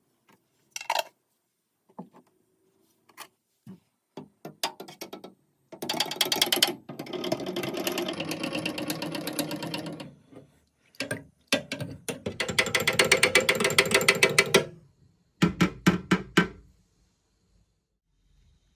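Metal parts being worked by hand: scattered clicks and knocks, then two long spells of rapid ratcheting rasp, the first about four seconds long and the second shorter, followed by a few heavier knocks near the end.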